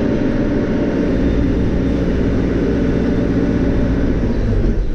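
Caterpillar 430E backhoe loader's diesel engine running steadily, heard from inside the cab; its note shifts slightly near the end.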